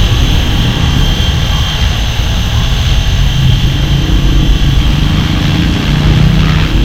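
Flywing FW450 V3 electric RC helicopter in flight: a steady rotor drone with a heavy low rumble and a constant high motor whine.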